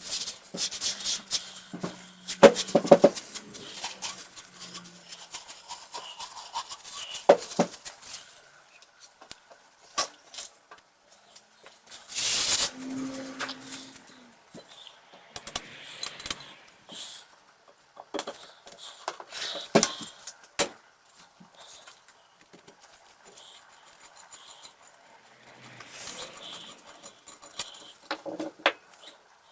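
Irregular clinks, taps and short scrapes of the iron's small metal parts being handled and worked on a workbench, with one longer scraping stretch about halfway through.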